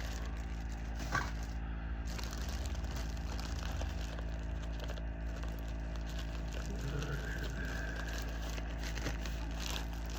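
Rustling and crinkling of haul packaging being handled, with a sharp click about a second in, over a steady low hum.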